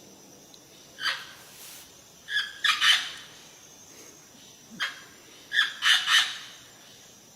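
Bird giving short, harsh calls, one at a time and in quick runs of two or three.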